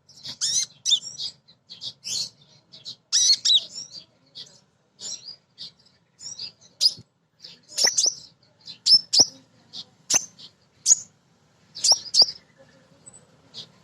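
Female kolibri ninja sunbird calling with quick, high chirps and short twittering phrases, in irregular bursts with short gaps between. This is the call a female makes to summon a male.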